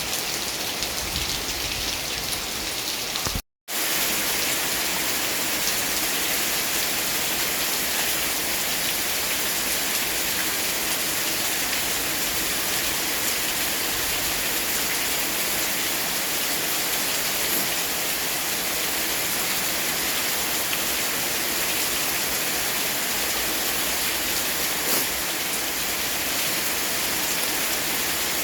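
Steady rain falling, an even hiss. About three and a half seconds in the sound drops out to silence for a moment, then the rain resumes with more hiss.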